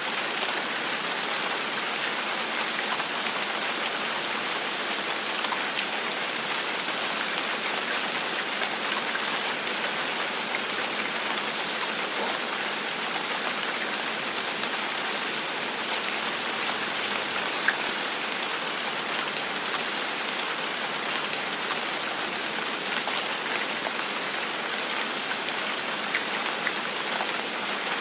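Steady rain falling, an even hiss with many small scattered drop ticks on a hard surface, one slightly louder drop about two-thirds of the way through.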